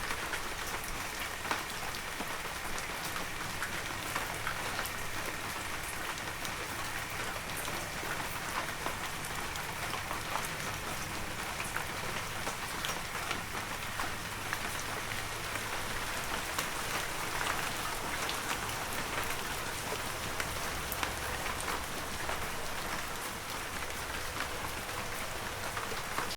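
Heavy rain falling steadily, a dense hiss of drops with many individual drips and splats standing out.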